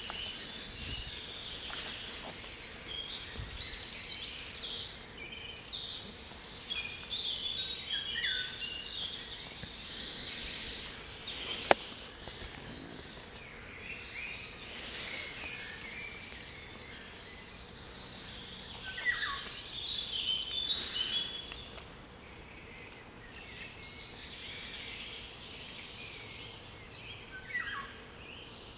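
Several songbirds singing over one another: a mixed chorus of short, varied whistled phrases and chirps. There is one sharp click about halfway through.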